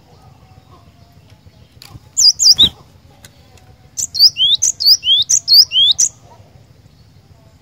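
Cinereous tit (glatik batu) singing: a short burst of high sweeping notes about two seconds in, then a run of about six quick repeated notes from about four to six seconds.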